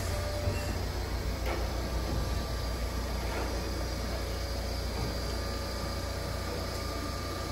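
Electric commuter train moving along the platform, a steady low rumble with faint hiss.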